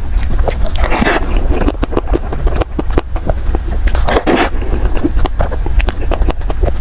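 Close-miked eating sounds of soft desserts: quick wet mouth clicks and smacks of chewing, with longer, hissier squelching sounds about a second in and again around four seconds in.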